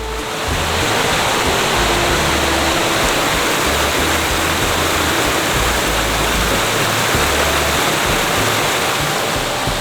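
Shiraito Falls, a broad curtain of many thin streams spilling over a rock face, rushing with a steady, dense hiss of falling water.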